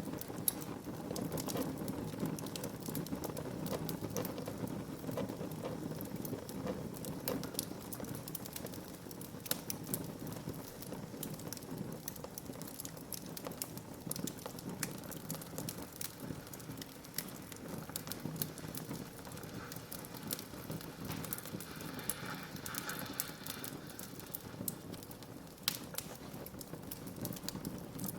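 Wood fire burning in a fireplace: a steady low hiss and rumble of flames, with frequent sharp crackles and snaps of burning wood.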